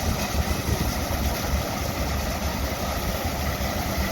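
Vintage Caterpillar crawler tractor's engine running steadily as it pulls a McCormick-Deering harvester, the harvester's machinery running with it.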